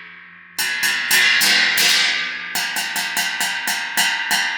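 A cymbal on a drum stand struck about a dozen times, each hit ringing out in a bright wash over the last. The strikes come in an uneven run about half a second in, then a steady run of about four hits a second.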